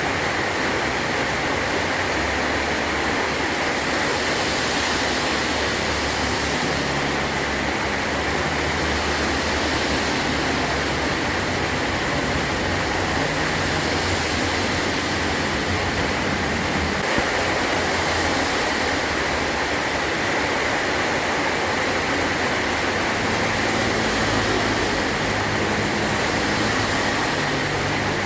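Heavy rain drumming steadily on a metal roof, a dense even hiss with no breaks.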